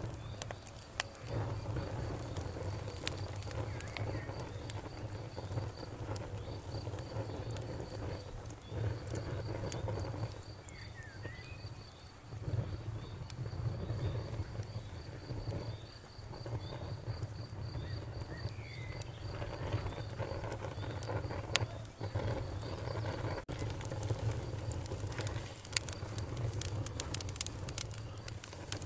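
Campfire crackling, with scattered sharp pops over a low steady rumble. An insect, likely a cricket, trills steadily in a high pulsing tone and stops about three quarters of the way through. There are a couple of brief chirps.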